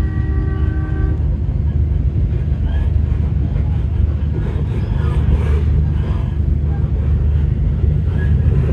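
Endeavour diesel railcar running along the line, heard from inside the carriage as a steady low rumble. A short horn note sounds for about a second at the start.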